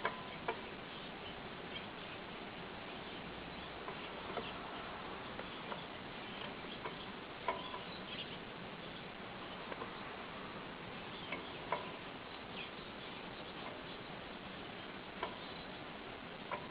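Canaries giving short, scattered chirps and clicks, a dozen or so at irregular intervals a second or more apart, over a steady hiss; no sustained song.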